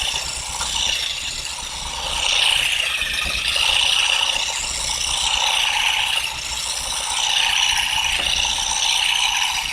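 Continuous mechanical rattling with a high whine that wavers up and down in pitch and swells and dips every second or two.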